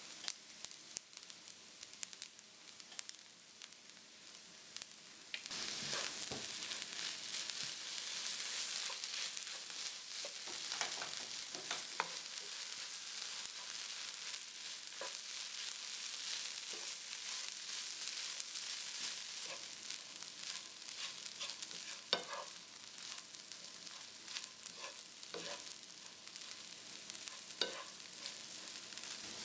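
Fried rice with beef, duck and green beans sizzling in a hot pan while a wooden spatula stirs and tosses it, scraping and clicking against the pan now and then. The sizzle gets louder about five seconds in.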